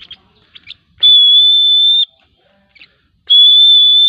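A whistle sounding a steady, high, unwavering tone in long blasts of about a second each: one about a second in, another starting near the end. It is a call signal used in free-flight training of a lovebird. Faint short chirps come in the gaps.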